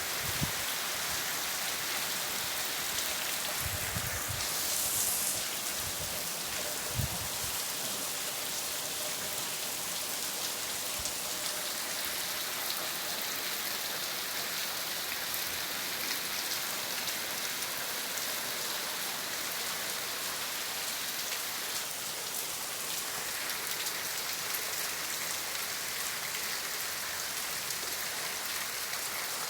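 Heavy rain falling steadily and pattering on surfaces, with a few low thumps in the first several seconds.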